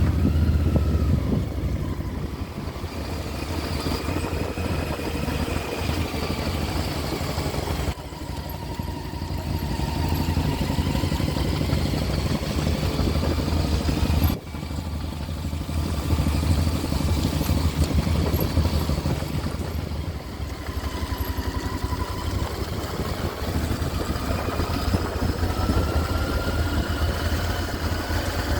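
Motorcycle engine running at low revs as the bike is ridden slowly, its pitch rising and falling with the throttle, with a sudden brief dip about halfway through.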